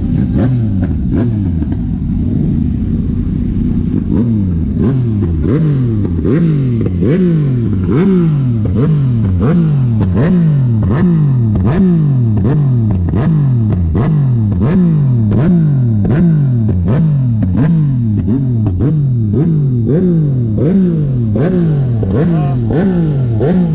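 A car engine revved over and over in quick throttle blips, about one and a half a second, for the whole stretch. Each blip rises sharply in pitch and then falls away before the next.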